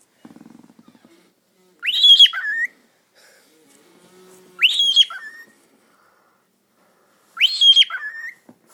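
Pet bird whistling three times, about three seconds apart. Each call is a quick rising whistle, held high, then dropping to a lower note: its whistled, sort-of attempt at "pretty bird".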